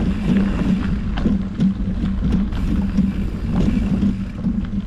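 Mountain bike rolling along a forest singletrack: tyre noise over the trail with scattered small clicks and rattles from the bike, and wind rumbling on the microphone.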